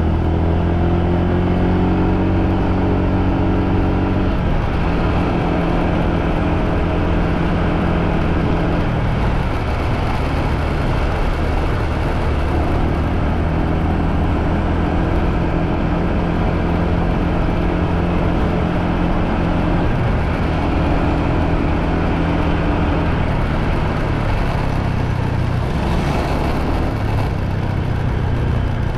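Motorbike engine running while riding, its note holding steady for stretches and shifting in pitch several times as the speed changes, over a steady rush of noise.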